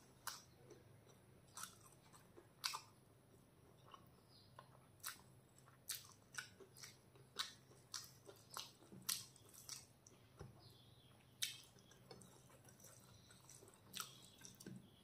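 Close-miked chewing of a mouthful of chicken pulao with the mouth closed: quiet, irregular mouth clicks and smacks, about one or two a second.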